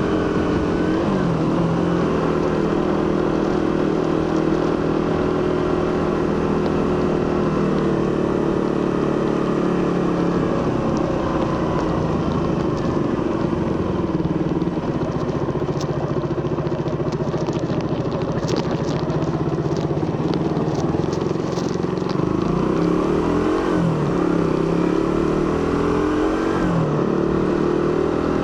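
Suzuki GSX-R150's single-cylinder engine and stock exhaust running steadily at a fairly constant pitch. There is a short dip in revs early on and a few brief rises and falls near the end. A scatter of light crackling ticks comes through in the middle.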